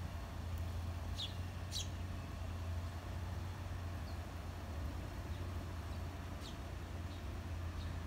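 A few short, high bird chirps, two close together about a second in and fainter single ones later, over a steady low hum of street traffic.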